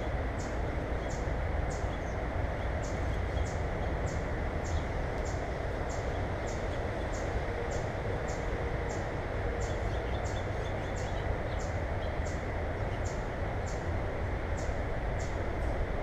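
Steady low outdoor rumble with a short high-pitched chirp repeating about twice a second, and a few fainter chirps around ten seconds in.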